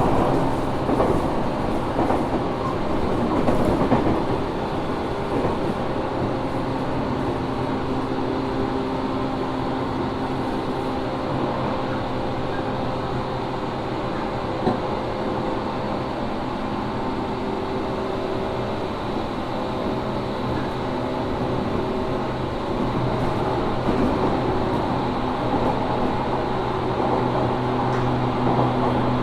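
JR 415 series 1500 subseries electric multiple unit running, heard inside a motor car: a steady rumble of wheels on rail with several held humming tones from the drive. This car is known for an abnormal running noise.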